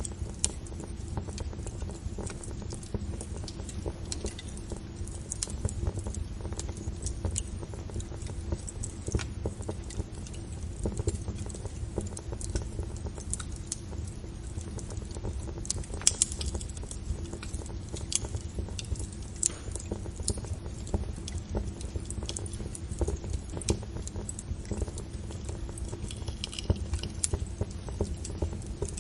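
Fire crackling: dense, irregular sharp pops and snaps over a low steady rumble of the flames, with one louder pop about halfway through.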